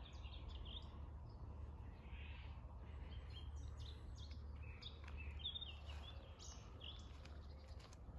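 Faint scattered bird chirps, short and high, over a low steady rumble.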